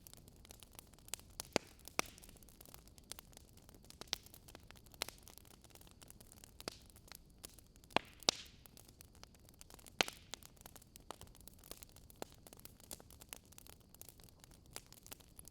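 Wood fire crackling: irregular sharp pops and snaps over a faint steady hiss, a few of them louder, near the start, about eight seconds in, and about ten seconds in.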